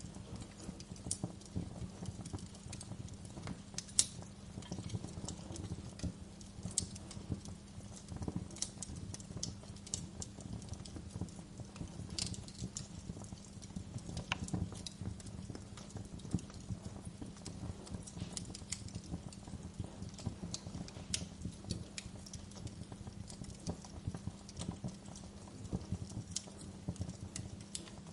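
Wood fire crackling, with irregular sharp pops and snaps, the loudest about four seconds in, over a steady low hum.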